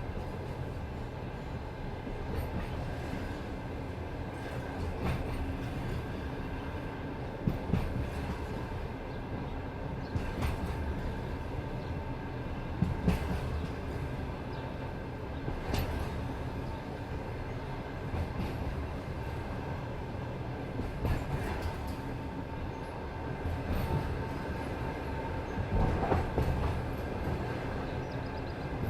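Passenger train cars rolling on the track: a steady low rumble of the wheels with irregular sharp clicks and knocks as they pass over rail joints and switches.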